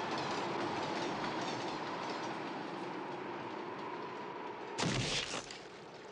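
Train running on the rails: a steady rolling noise with a faint steady tone. About five seconds in comes a sudden loud burst lasting about half a second.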